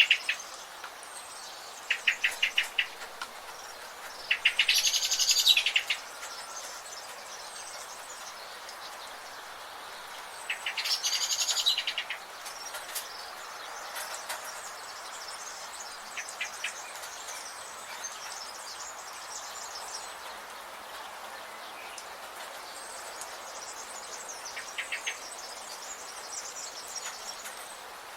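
Rainforest birds calling: a loud, rapid trilled call comes a few times, with shorter, quieter trills between, over a steady background hiss.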